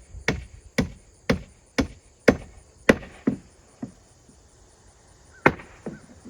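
Hammer blows on the roof's plywood decking, about two a second, thinning out and stopping a little past three seconds in, then one more hard blow near the end.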